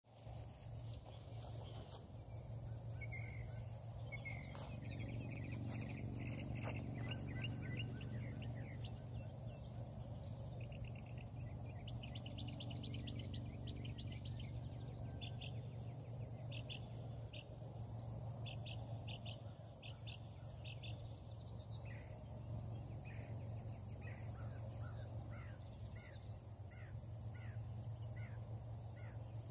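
Birds chirping and calling, in runs of short repeated notes that become an evenly paced series of down-slurred calls in the second half, over a steady low hum.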